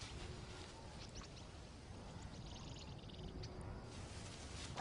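Faint bush ambience under a steady low rumble, with a few short bird chirps and, about halfway through, a bird's quick high trill of about ten evenly spaced notes.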